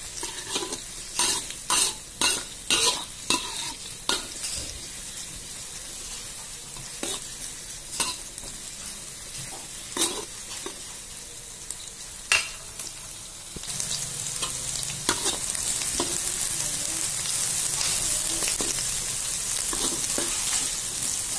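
Sliced onion and garlic sizzling in hot vegetable oil in a wok, with a spatula scraping and tapping against the pan as they are stirred. The sizzle grows louder and steadier about two-thirds of the way through. The aromatics are being sautéed until fragrant and starting to brown.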